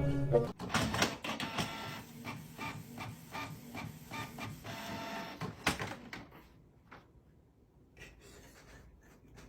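Rhythmic mechanical clattering, about three or four strokes a second, like a small machine at work; it stops about six seconds in, leaving only faint sounds.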